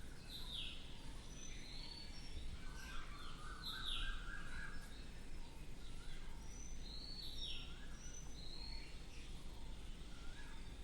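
Birds chirping faintly in the background: many short, sharply falling calls repeating throughout, over a low steady room noise.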